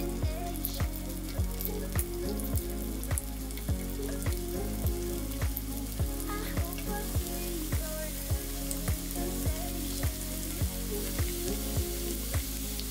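Shredded sweet potato frying in oil in a pan, with a steady sizzle, under background music with a regular beat of about one and a half beats a second.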